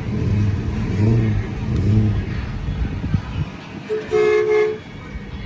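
A car engine running with a low rumble that rises in pitch a couple of times, then a car horn sounds one steady note for about a second near the end.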